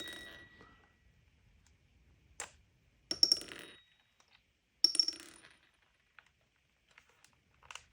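Small control knobs, just pulled off the radio's control head, set down on a hard surface: two sharp clinks with a brief ringing, about three and five seconds in, and a fainter tap just before them.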